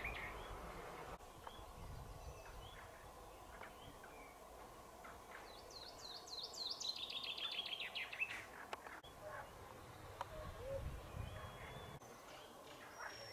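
Birdsong outdoors: a songbird sings a fast trill of repeated notes falling in pitch about six seconds in, with scattered short chirps around it over a faint background hum of open air.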